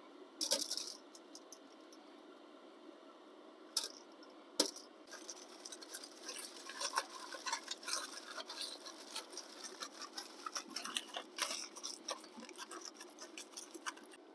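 A few sharp knocks, then a long run of dense, irregular crinkling from plastic food packaging being handled and pulled open.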